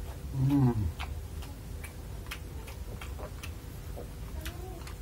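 A man eating gives one short, falling 'mmm' hum about half a second in. Then he chews with small wet mouth clicks, about two a second.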